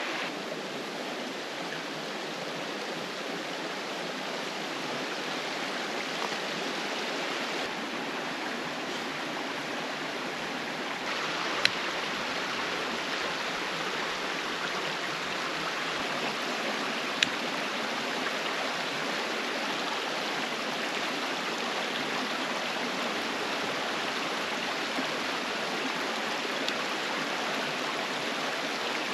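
Steady rushing of a mountain creek flowing over rocks, with the tone of the flow shifting slightly a couple of times. Two brief sharp clicks stand out, one about twelve seconds in and one about seventeen seconds in.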